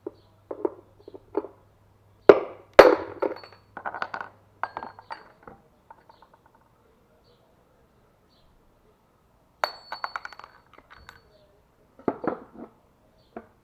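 Metal drift struck with a hammer to knock a dried-out, seized drum bearing out of a washing machine's tub housing: a few light taps, then two hard blows about half a second apart, followed by more clinks of loose metal parts with short ringing, a pause, and further clinks near the end.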